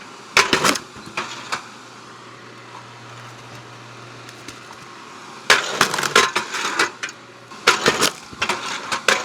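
Electric 7-ton log splitter working through oak rounds. A few sharp cracks are followed by a steady low motor hum, then from about halfway through come loud bursts of cracking and snapping as the oak splits apart.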